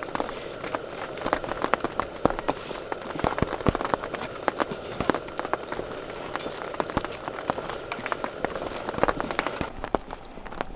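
Rain falling, a steady hiss thick with irregular sharp drop hits. Near the end the hiss drops away abruptly, leaving a few fainter knocks.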